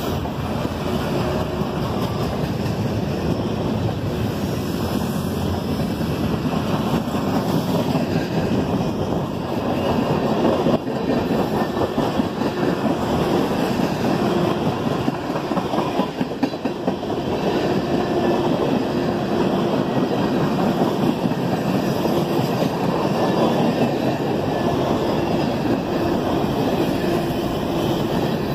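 CSX freight train's cars rolling past: a steady loud rumble of steel wheels on the rails, with one sharper bang about eleven seconds in.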